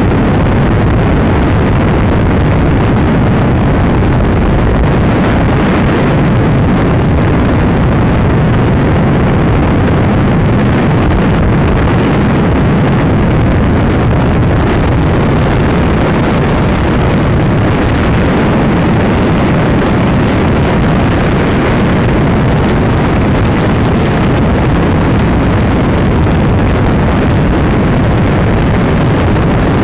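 Honda Supra X 125's single-cylinder four-stroke engine running hard at high speed, mixed with loud, steady wind rush on the microphone.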